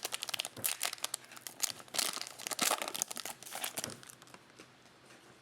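Baseball trading cards and their crinkly pack wrapping being handled, a dense run of rustling and small clicks that dies down about four seconds in.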